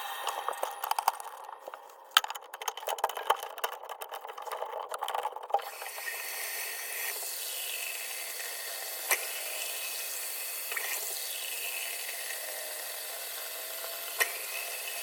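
Bathroom sink work: a few seconds of scattered clicks, knocks and rattles, then the faucet running water steadily into the basin from about six seconds in, with a couple of sharp clicks over it.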